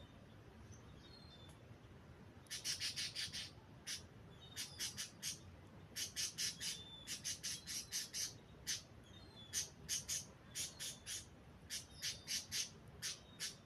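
Doves feeding: runs of short, scratchy, high-pitched sounds, about five a second in groups of several, starting about two and a half seconds in, with faint thin chirps in the background.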